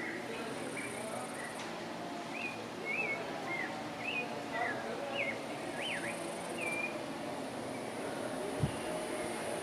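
Outdoor ambience with a bird giving short, quick whistled chirps that rise and fall, clustered in the middle, over a steady background hiss with a faint high insect-like buzz. There is a single short low thump near the end.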